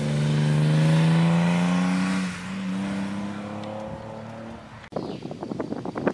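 Racing car engine under hard throttle as the car drives past, its note climbing slowly, then stepping down in pitch and level about two seconds in and fading away. Near the end the sound cuts abruptly to a rough, uneven rumble.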